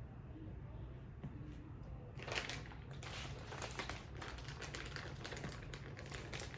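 Dense crackly rustling of food and packaging being handled in the kitchen, starting about two seconds in after a low steady hum.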